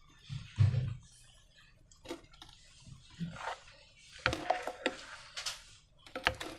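Slime being handled: irregular sticky clicks, crackles and squelches, clustering in a busier run a little past the middle and again near the end.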